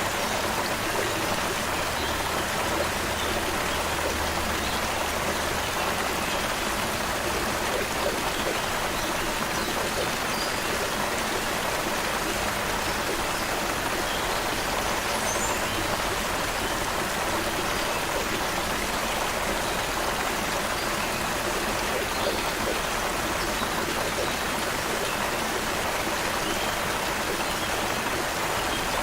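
Creek water flowing steadily, with a few faint, brief bird chirps high above the rush of the water.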